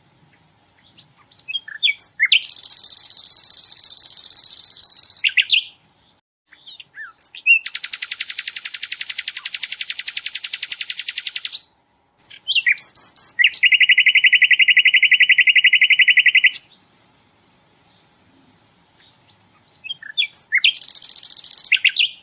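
A sikatan londo (flycatcher) singing: four long, very fast rattling trills of a few seconds each, each led in by a few short chirps, with short pauses between. The third trill is lower-pitched than the others. These rapid-fire bursts are the "tembakan" prized in training recordings for songbirds.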